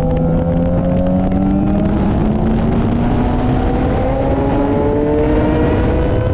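Yamaha FZ6R inline-four motorcycle engine pulling under steady acceleration, its pitch rising slowly, over a haze of wind noise.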